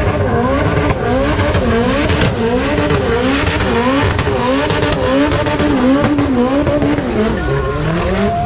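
Car engine being revved over and over, its pitch climbing and dropping a little more than once a second, with a longer climb near the end.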